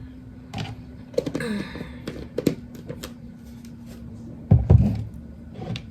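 Clicks and light knocks of a spoon and containers being handled while mixing in a plastic bowl, with a heavier thunk about four and a half seconds in, over a faint steady hum.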